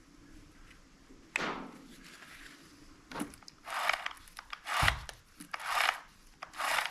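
Rubbing strokes about once a second on a freshly oiled mini chainsaw, starting a few seconds in, after a single sharp scrape about a second in.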